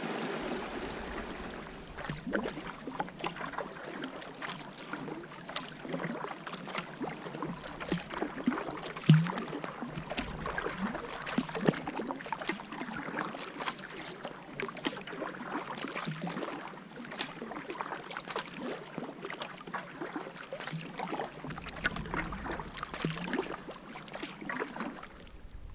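Rushing water, then from about two seconds in, the splash, drip and patter of kayak paddle strokes in lake water, with one louder hit about nine seconds in.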